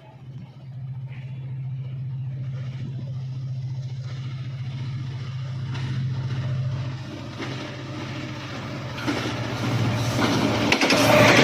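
Approaching passenger train's diesel locomotive: a steady low engine drone that grows louder, with wheel and rail noise rising sharply near the end as it comes close.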